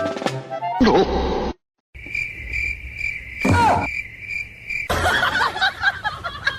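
Cricket-like chirping, a steady high trill pulsing several times a second for about three seconds in the middle, after a short pitched sound effect near the start. Voices take over near the end.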